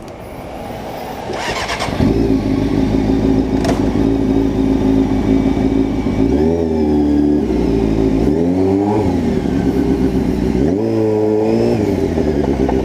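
Sport bike engine cranked on the starter and catching about two seconds in, then idling steadily with three quick throttle blips that rise and fall back to idle.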